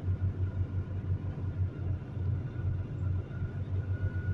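Semi truck's diesel engine running at low speed, a steady low rumble with a faint, thin high whine above it.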